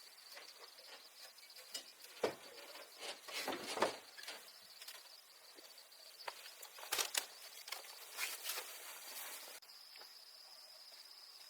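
Insects chirring in a steady high drone, with irregular rustling and crackling of leaves and plants in bursts through the first part, the loudest about two to four seconds in and again around seven seconds.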